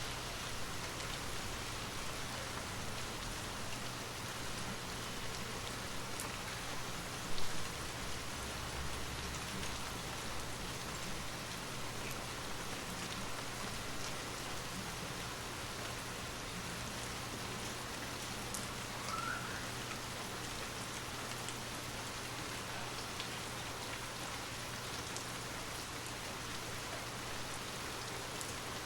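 Steady rain falling, an even hiss of drops, with one short louder knock about seven seconds in.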